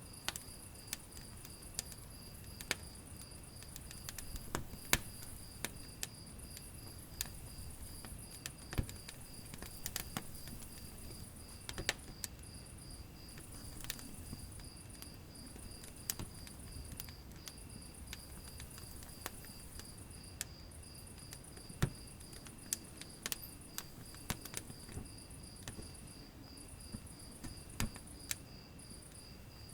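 Wood fire in a fireplace crackling, with irregular sharp pops of varying loudness over a low rumble of the flames. A steady, evenly pulsing high trill runs underneath throughout.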